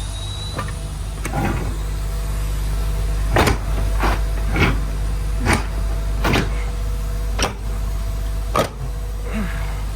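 MAN TGX 18.510 truck's diesel engine idling with a steady low hum. About eight sharp clicks or knocks come less than a second apart through the middle.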